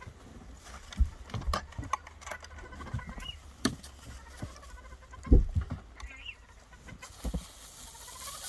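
Hens in a coop giving a few soft clucks and calls among scattered knocks and thumps, the loudest a thump a little past the middle.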